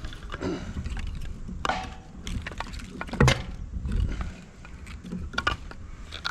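Pieces of firewood being handled, with irregular knocks and cracks of wood, the loudest a little over three seconds in.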